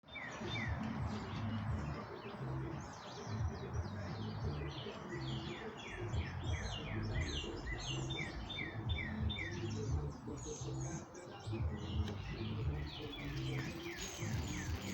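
Songbirds chirping: many short, quick downward chirps repeated in rapid runs, over a low, uneven rumble.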